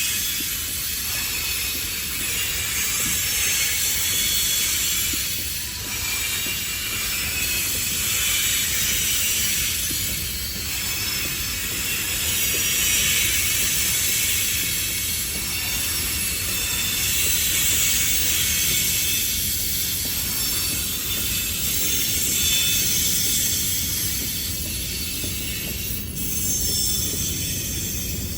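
Train cars rolling along the rails with a continuous metallic rattle and clatter of wheels and running gear.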